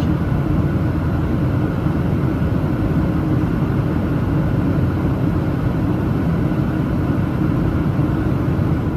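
Steady cabin roar of a Boeing 737-900ER in flight, heard inside the cabin by a window seat: its CFM56-7B jet engines and the airflow over the fuselage.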